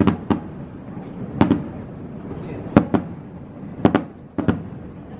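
Fireworks shells bursting in the sky: a run of sharp booms, about eight or nine at uneven gaps, some in quick pairs, each followed by a short echoing tail.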